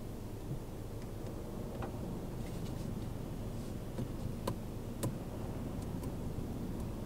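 Low, steady rumble of a car's engine running, heard from inside the cabin, with a few faint, irregular clicks.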